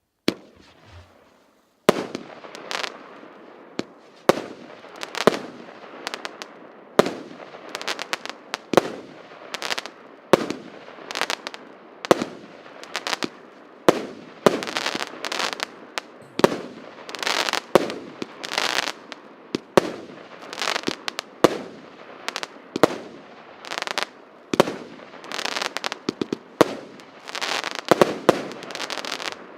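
A 19-shot, 1.2-inch consumer firework cake (RS8090 'Multicoloured Snowflakes') firing: a single sharp pop, then about two seconds in a rapid series of sharp bangs roughly one a second, with a rushing noise between them, stopping near the end.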